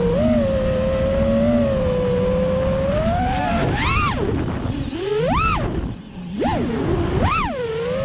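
FPV freestyle quadcopter's brushless motors and props whining at a steady pitch, then surging up and back down three times as the throttle is punched. The sound briefly drops away about six seconds in as the throttle is cut.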